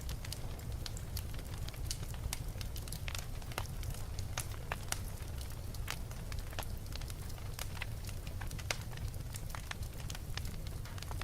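Wood fire burning in a fireplace: irregular crackles and sharp pops, several a second, over a steady low rumble.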